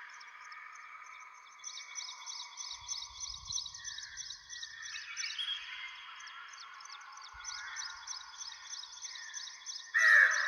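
Several forest birds singing together in a morning chorus, with a fast, evenly repeated high chirping throughout. A sudden, louder sound cuts in near the end.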